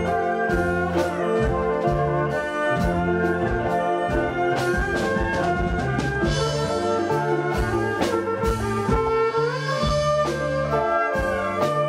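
Likay stage band playing through the sound system: brass horns holding and sliding between long notes over a drum kit keeping a steady beat.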